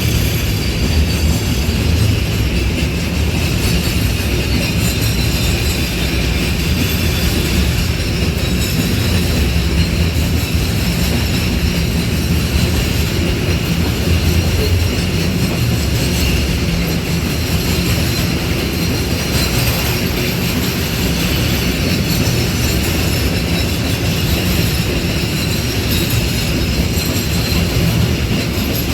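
A freight train's wagons rolling past on the rails, with a steady low rumble throughout and a thin high squeal from the wheels.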